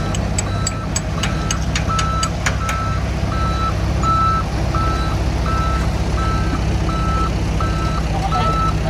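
Heavy machine's reversing alarm beeping evenly, a little under twice a second, over the low rumble of a diesel engine. A quick run of sharp clicks or clanks sounds in the first few seconds.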